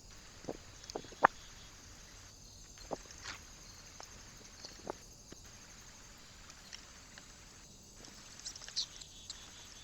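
Scattered light taps and knocks on a bird feeder perch from animals moving and feeding on it, with the sharpest knock about a second in and a few faint high chirp-like clicks near the end, over a faint steady hiss.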